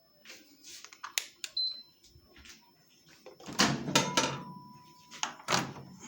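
Microwave oven being worked by hand: sharp clicks and knocks of its door and buttons, a short high beep, then a longer, lower beep lasting just over a second.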